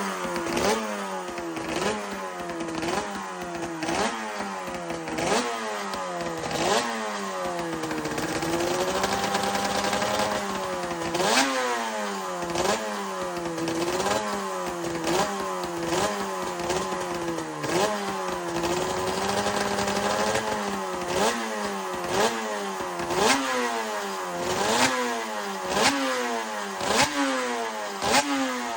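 Suter MMX 500 two-stroke V4 race bike running hard, its engine note climbing and then dropping sharply at each quick gear change, about once a second. About a third of the way in, and again later, the note sags and winds back up more slowly as the bike slows and accelerates again.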